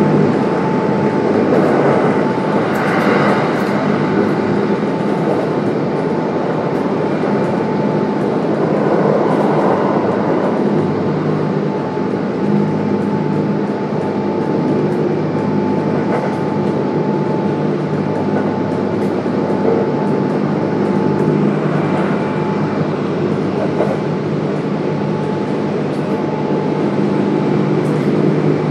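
Kintetsu 1031 series electric train with a Hitachi GTO-VVVF inverter running between stations: wheels on the rails and a steady motor hum at an even speed.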